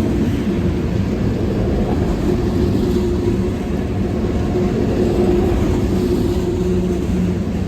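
CSX freight train running by, a loud, steady noise of rolling equipment with a faint held tone through the middle.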